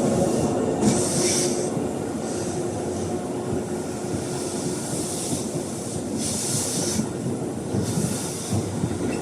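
Tobu 8000 series electric train pulling slowly into a station and braking, with a steady running rumble from the wheels on the rails. Several short bursts of high hissing or squealing come from the wheels and brakes as it slows.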